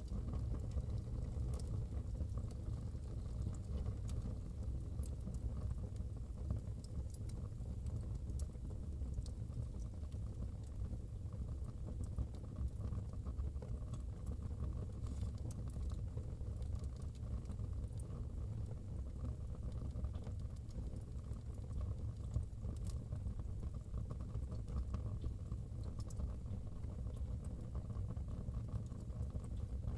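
Wood fire burning in a fireplace: a steady low rumble of flames with scattered small crackles and pops from the burning firewood.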